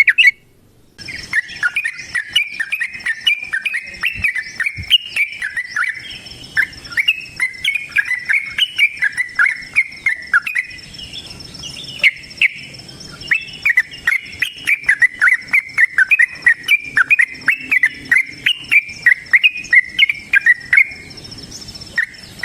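Yellow-vented bulbul singing a long, rapid run of chattering notes, broken only briefly near the middle, with a steady high buzz behind it.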